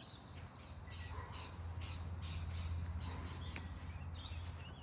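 Birds squawking and chattering in many short, repeated calls, over a low rumble that swells through the middle and then eases off.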